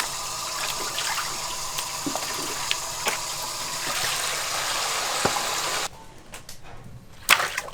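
Water running or gushing steadily, cutting off abruptly about six seconds in. Light clicks and a sharp knock of kitchen handling follow near the end.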